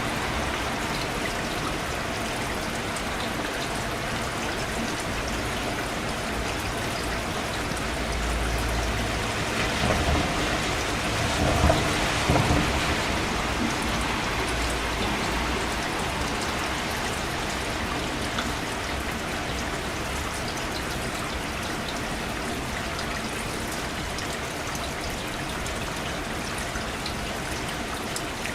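Steady rain falling, an even hiss of drops. About a third of the way in a low rumble swells up, with a few louder crackles near the middle, then fades back into the rain.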